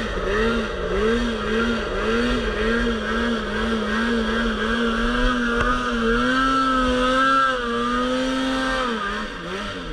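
Polaris RMK Pro 800 snowmobile's two-stroke twin engine, the throttle worked in quick rhythmic pulses, about two to three a second, while riding in deep snow. Then the revs are held higher and steady for a couple of seconds and drop off near the end.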